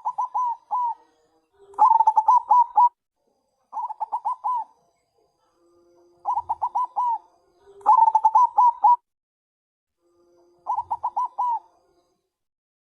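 Zebra dove (Bangkok perkutut) cooing its caller-type song: six quick phrases of rapid staccato trilled notes, each about a second long, with short pauses between them.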